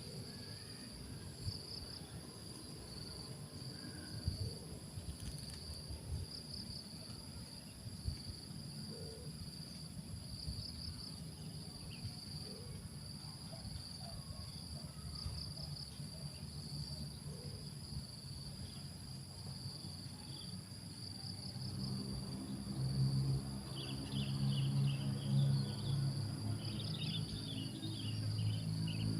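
Insects, crickets among them, trilling steadily in a high drone broken by short pulsed bursts. About three-quarters of the way through, a louder low hum comes in along with a few faint high chirps.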